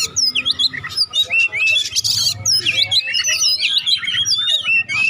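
Oriental magpie-robin (kacer) singing in the rapid, nonstop 'konslet' style: a dense stream of varied whistles, chirps and quick slurred glides with hardly a pause.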